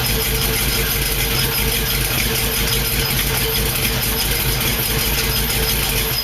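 Swapped-in GM 5.3-litre V8 running steadily at idle through Hooker cast-iron exhaust manifolds and a new 2.5-inch JEGS exhaust, with leaks at the U-clamped muffler joints that the owner hears.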